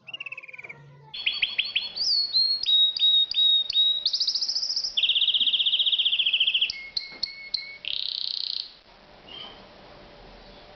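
Canary singing a varied song of quick repeated chirps, a long rolling trill and a buzzy phrase, falling to quiet background noise about nine seconds in.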